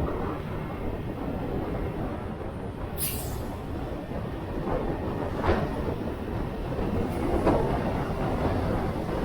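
Motorcycle riding noise, a steady rumble of engine, road and wind, with short whooshes about three, five and a half and seven and a half seconds in.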